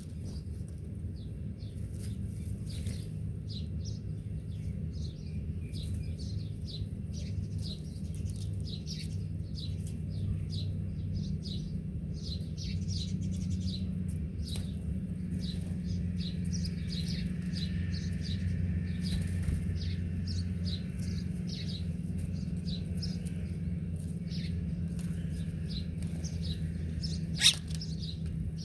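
Small birds chirping: a dense run of short, high chirps throughout, over a steady low hum. A single sharp click near the end.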